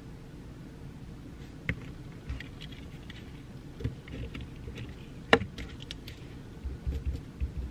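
Pencil writing on paper: faint scratching strokes and small taps over a steady low room hum, with one sharp tap about five seconds in.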